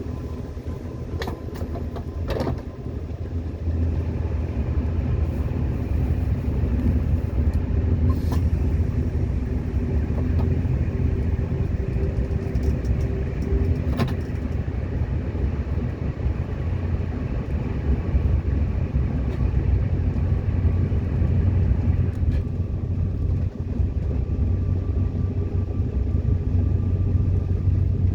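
Metro train running: a steady low rumble of wheels and running gear, with a few sharp clicks in the first half.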